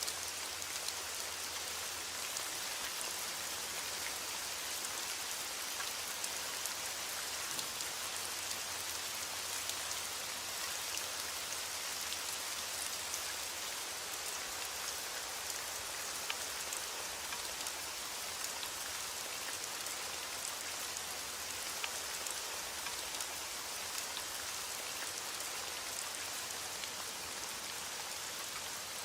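Steady rainfall: an even hiss of rain with fine scattered drop patter, no let-up or change.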